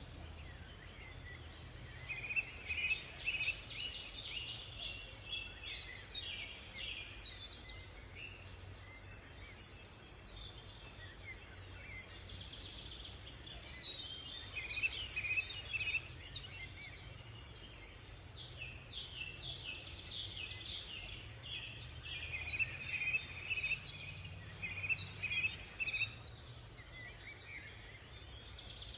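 Small songbirds singing in three bouts of quick, repeated chirping notes, separated by quieter stretches. Under them runs a steady low background rumble.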